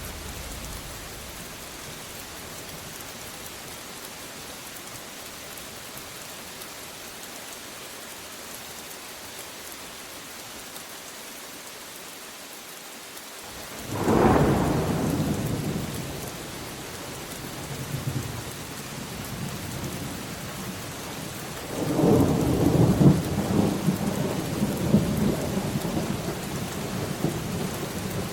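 Steady rain with thunder: a sudden loud clap about halfway through that rumbles away, then a longer rolling peal with several cracks near the end.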